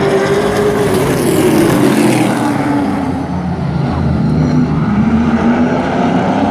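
Race truck engines running at speed around the track, the engine pitch falling as a truck sweeps past about a second in and rising again as they accelerate later.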